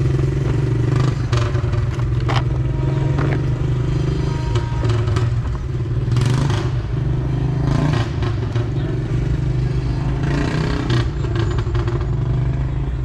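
A vehicle engine running steadily, with scattered clicks and clatter over it.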